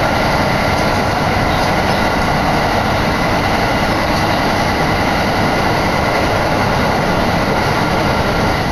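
Steady running noise of a moving passenger train heard from inside the car: wheels on the rails at speed, with a faint steady whine over it.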